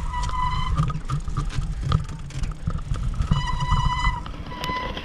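Wind buffeting the microphone of a moving bicycle, a heavy uneven rumble, with a high steady squeal that comes and goes several times.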